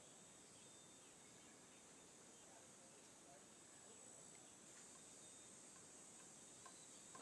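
Faint nature ambience: a steady high-pitched insect chorus with a few faint short chirps.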